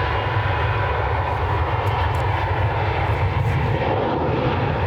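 Jet airliner engines running steadily after landing: an even rumble with a faint high whine.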